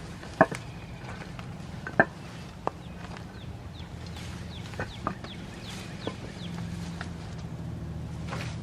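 Sharp snips and snaps as overgrown cherry tomato stalks are cut back, about seven separate cuts, with birds calling in the background over a steady low hum.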